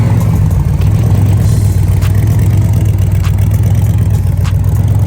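Classic muscle car's V8 engine and exhaust running steadily: a loud, deep, even drone with no clear revs, as at a steady cruise.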